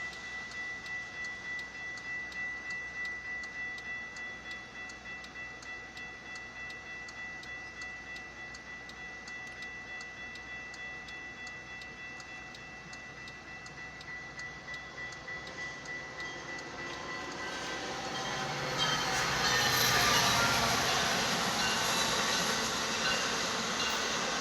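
Railroad grade-crossing bell ringing in an even rhythm. About three-quarters of the way in, a Metra commuter train comes up and passes, its rail and wheel noise rising to drown out the bell.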